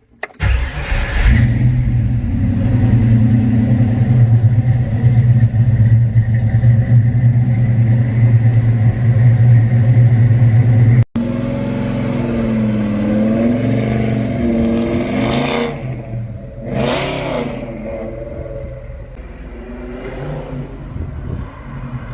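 Ford 5.0 V8 engine running at a steady idle. After an abrupt cut it is revved up and down, with three quick rev blips in the second half.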